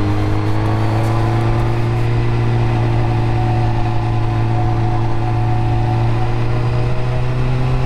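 600cc sport motorcycle engine running under way at a steady cruise, its pitch climbing slowly as it gathers speed, over a constant rush of noise.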